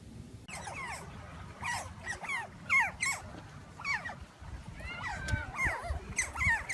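A dog whimpering: a run of short, high whines that fall in pitch, starting about half a second in and repeating throughout.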